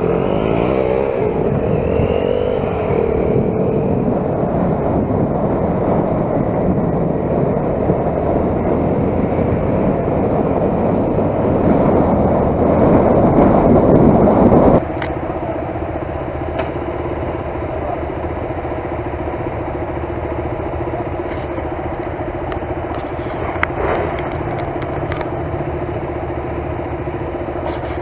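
Motorcycle engine running under way. About halfway through the sound drops suddenly to a quieter, steady engine note.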